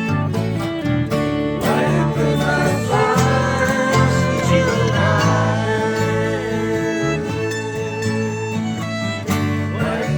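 Live acoustic band music: plucked guitar and a melody line, with a fiddle and some singing.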